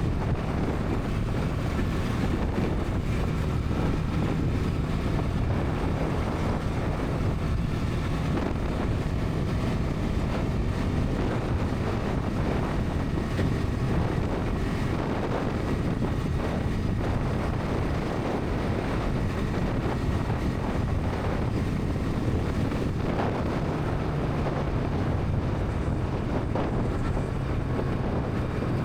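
Bajaj Pulsar NS 200's single-cylinder engine and exhaust running steadily at highway cruising speed, with wind rushing over the microphone.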